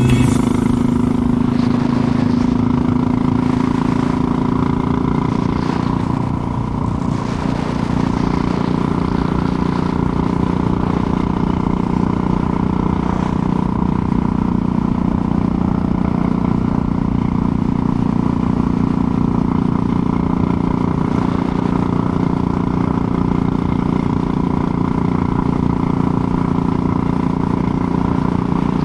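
Motorcycle engine running at a steady cruise; its note drops a little about seven seconds in, then holds steady again.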